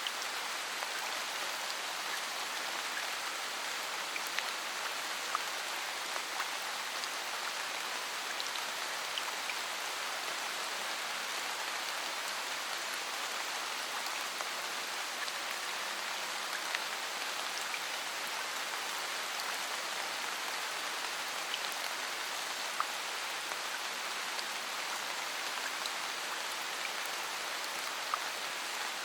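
Steady rain falling, an even hiss with scattered ticks of individual drops striking a surface.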